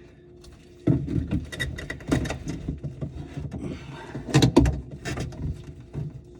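A run of irregular knocks and clatters, as of hard parts or tools being handled and set down, starting about a second in and loudest about four and a half seconds in.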